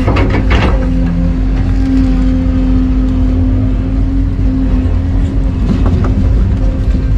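Excavator's diesel engine running steadily with a constant low hum, as heard near the working machine. A few sharp knocks come within the first second.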